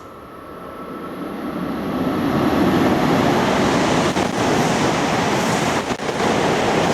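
Tohoku Shinkansen train rushing through the station at high speed. A loud rush of air and wheel noise swells quickly over the first two seconds and then holds steady, with brief dips about four and six seconds in.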